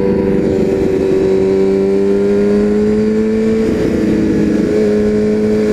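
Honda CBR sport bike's engine running on the road, its note rising slowly, wavering briefly about two-thirds of the way through, then holding steady.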